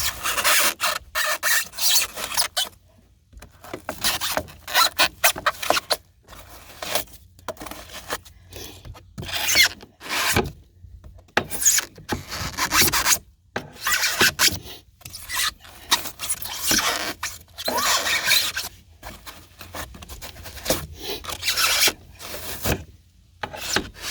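A blade being worked by hand through rigid pour-in flotation foam, making rasping, rubbing strokes in uneven runs with short pauses between them.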